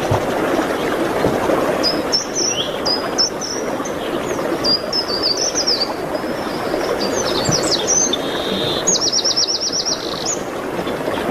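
Songbirds singing over a steady rushing background noise: a run of quick high chirps and whistles starts about two seconds in and ends in a fast, even trill near the end.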